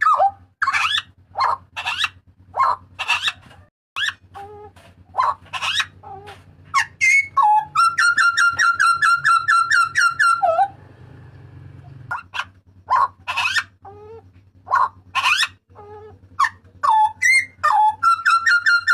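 Papuan butcherbird calling loudly: a run of short, piercing whistled calls, many sweeping sharply in pitch, broken by a fast rattling trill about eight seconds in and another near the end. A faint low hum runs underneath.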